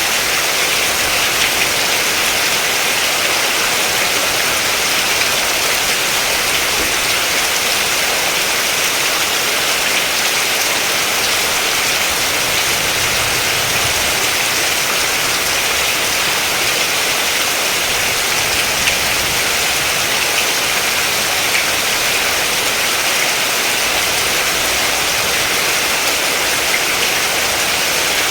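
Steady rain falling: an even, unbroken hiss that stays the same throughout.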